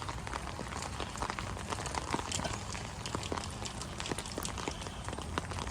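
Steady rain falling, with single drops clicking sharply and irregularly on nearby surfaces.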